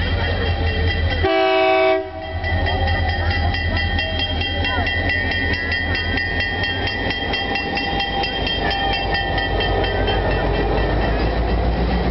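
Diesel locomotives rolling through a grade crossing with a deep, steady engine rumble. A short horn chord sounds about a second in. A crossing-signal bell rings in quick, even strokes through most of the passage, and wheels clack over the rails.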